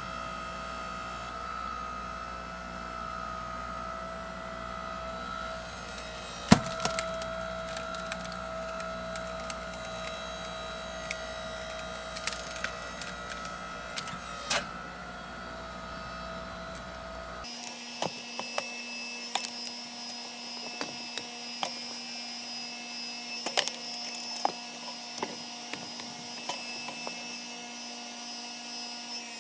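Hydraulic log splitter running with a steady machine whine while logs crack and splinter as they are split, the loudest crack about six seconds in. Past halfway the steady tone shifts abruptly to a different hum, and the cracking goes on.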